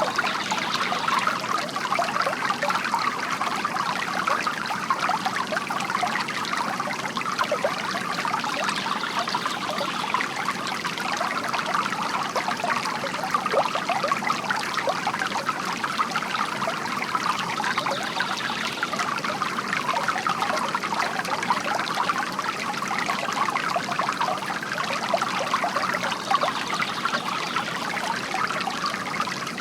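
Water from a bamboo fountain trickling and splashing steadily into a basin.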